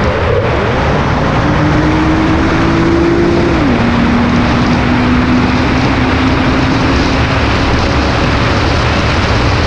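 A car driving at speed: steady road and wind noise, with an engine note that holds and then drops in pitch about four seconds in.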